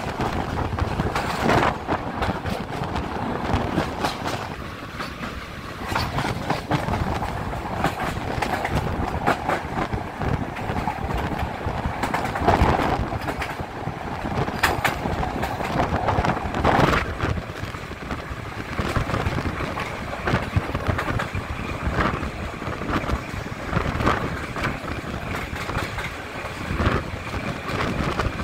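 Passenger train coaches rolling along the track, a steady rumble with irregular sharp knocks as the wheels run over rail joints and points, heard from an open window of the coach.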